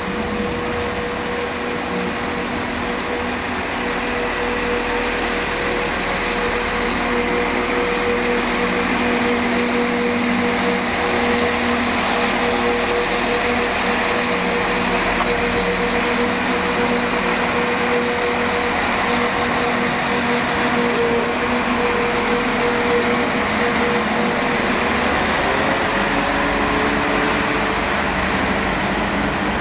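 Class 197 diesel multiple unit pulling out of the station and running past, its underfloor diesel engines giving a steady drone over the rumble of wheels on rail. The drone's pitch shifts slightly upward near the end.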